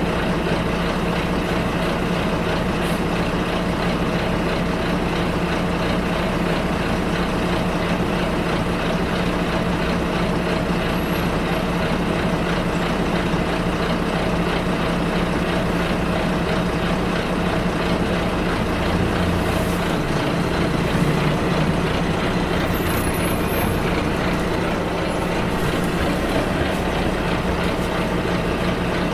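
Bus ride heard from inside the bus: a steady drone of the engine and road noise, with a brief change in the engine note about two-thirds of the way through.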